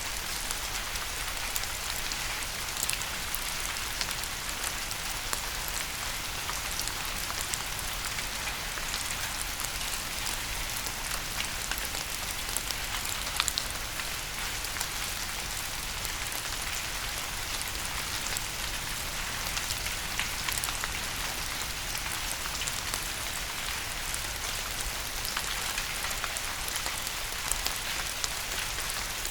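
Steady rain: an even hiss with many small, sharp drop ticks running through it.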